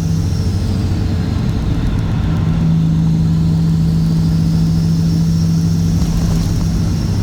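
Caterpillar C15 ACERT inline-six diesel with straight pipes, running steadily at an even engine speed with a deep, constant exhaust note.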